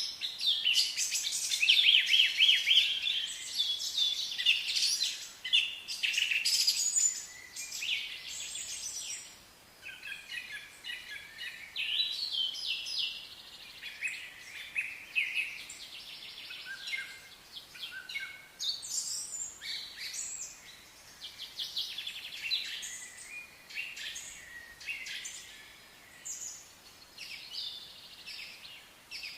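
Wild birds singing and chirping, many quick calls overlapping, busiest and loudest in the first several seconds, then sparser.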